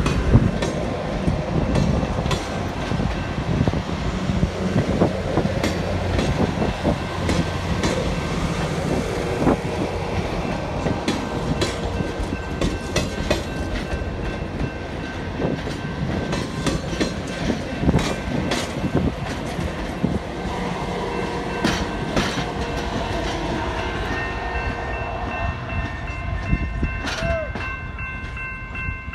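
Grand Canyon Railway passenger cars rolling slowly past, wheels clicking and clattering over the rail joints with a low rumble.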